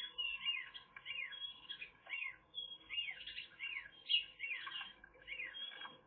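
Small bird chirping over and over, short high chirps that each rise and fall, two or three a second. Underneath, faint scraping and rustling as a magpie works mud and twigs into its nest cup.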